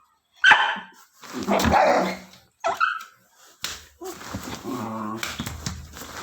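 A dog barking in several short bursts, then a longer drawn-out pitched sound from about four seconds in.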